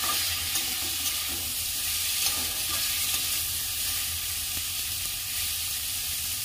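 Spiced potato pieces sizzling steadily in hot oil in a kadai, stirred with a metal spatula that scrapes the pan. The masala is being fried until the oil separates.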